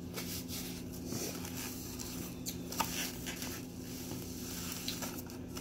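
Close-up chewing and lip-smacking while eating a bacon, egg and sausage muffin, with small wet clicks and a paper napkin rustling near the start, over a steady low hum.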